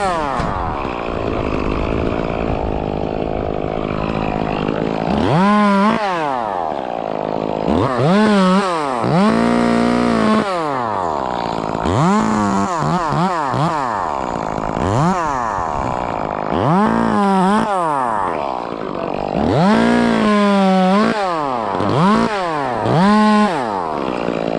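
Two-stroke chainsaw being revved again and again while cutting, its engine pitch climbing and dropping back every second or two.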